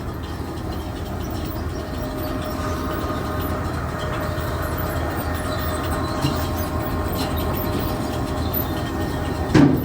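Grain bucket elevator (grain leg) running, its belt and buckets turning with a steady rumbling clatter and a faint steady whine. One loud knock near the end.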